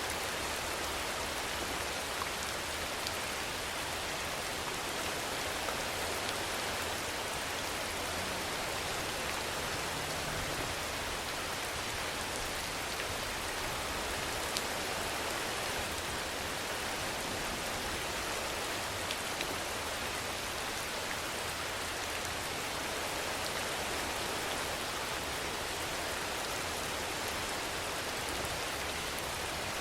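Steady rain: an even hiss of rainfall with a few louder single drops ticking now and then.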